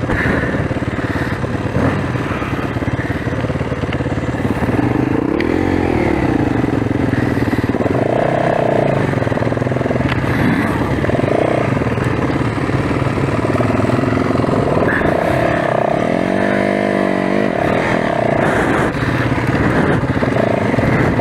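Single-cylinder four-stroke enduro motorcycle engine running steadily on the trail. Around six seconds in, and again around sixteen seconds, the pitch swells and falls back as the throttle is opened and closed.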